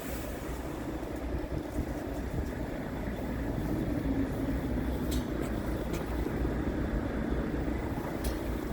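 Scania P-series truck's diesel engine running steadily with a low rumble.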